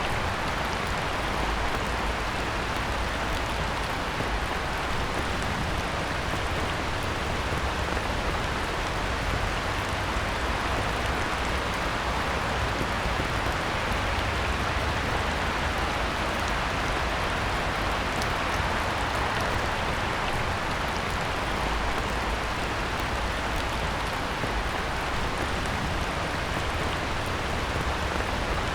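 Heavy rain pouring steadily onto a pond's surface, a dense even hiss with a low rumble underneath.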